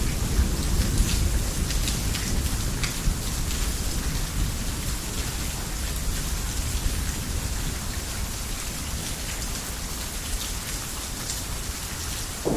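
Steady heavy rain on a roof, with scattered sharp drips, over a low rumble of thunder that slowly fades away.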